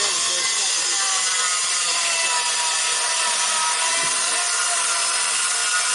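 Power saw cutting through a sheet of plywood in one long, steady cut.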